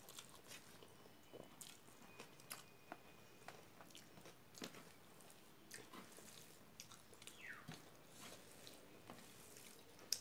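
Faint close-up chewing with scattered soft clicks and lip smacks, and soft squishes of fingers mixing rice on a steel plate. A sharper click comes right at the end.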